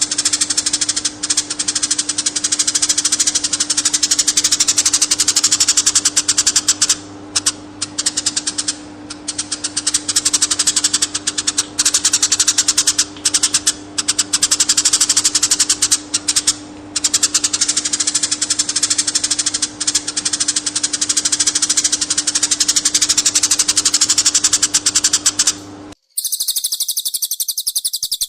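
A songbird's rapid chattering call, a fast unbroken run of ticks repeated with short pauses, over a steady low electrical hum from the recording. About 26 seconds in it cuts off abruptly and a different high-pitched call follows briefly.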